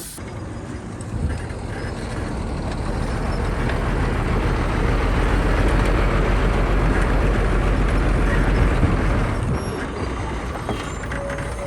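Heavy diesel engine of earthmoving machinery running hard, getting louder over the first few seconds and easing off after about nine seconds. A short steady beep near the end.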